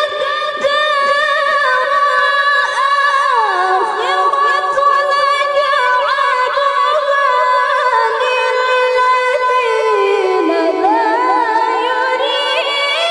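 A woman reciting the Quran in a high, clear voice, holding one long unbroken melismatic note with trills. The melody steps down in pitch about four seconds in and again about ten seconds in, then climbs again near the end.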